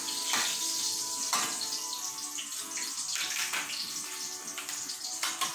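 Oil sizzling steadily in a frying pan as eggplant omelettes (tortang talong) fry, with a few short clicks of utensils.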